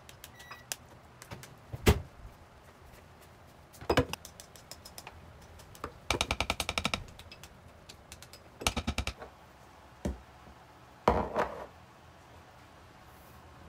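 Sewing machine stitching in two short bursts of rapid, even strokes, with separate single knocks and clacks between them.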